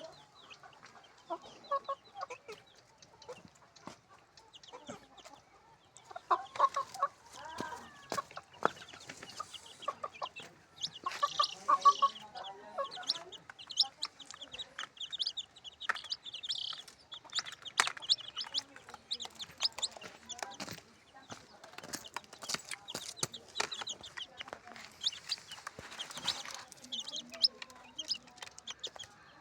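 A group of young chicks chirping: many short, high cheeps overlapping throughout, with some lower clucking calls and scattered sharp taps mixed in.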